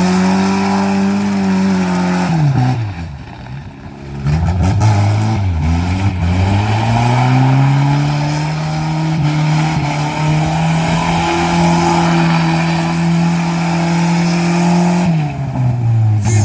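Suzuki Escudo's engine revved hard and held at high revs for seconds at a time while doing skids, dropping off about two and a half seconds in and again near the end.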